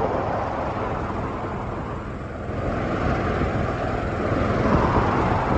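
Boat engine running steadily with a continuous rushing noise, a faint steady whine showing from about two seconds in to near the end.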